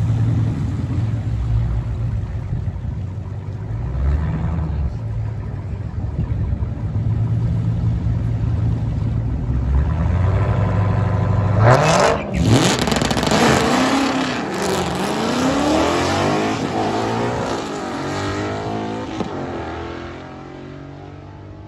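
Ford Mustang's engine running at the drag-strip start line, then launching hard about 12 seconds in: the revs climb, drop back at a gear change and climb again as the car pulls away, fading with distance near the end.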